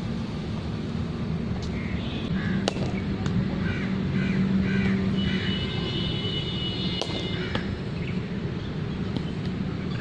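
A bird calling in a run of about six short calls, roughly two a second, in the middle, over a low steady hum. A few sharp knocks fall here and there.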